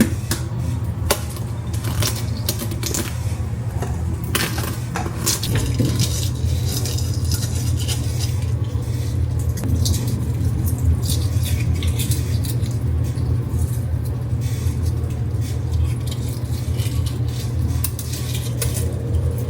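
Dishes and cutlery clinking and clattering as breakfast is handled, with many scattered sharp clicks over a steady low hum.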